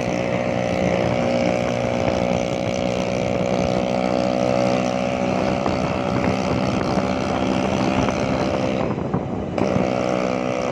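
Motor scooter engine running steadily under way, with a brief drop in level about nine seconds in.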